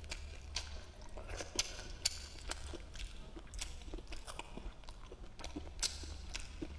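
A person chewing a mouthful of food close to the microphone: soft mouth clicks and smacks, irregular, several a second.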